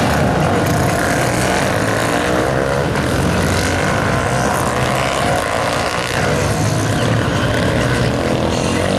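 Several supermoto motorcycles running on a race track, their engines revving up and down in overlapping rising and falling pitches.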